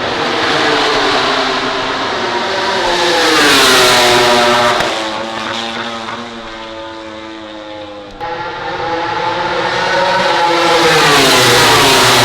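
MotoGP prototype race motorcycles' four-stroke engines at high revs as bikes pass at speed. The engine pitch falls as the first bike goes by, about four seconds in, and a second bike comes up loud, with its pitch falling again near the end.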